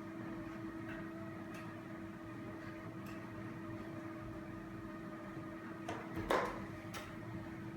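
Steady hum, with a brief rustle and soft knock about six seconds in.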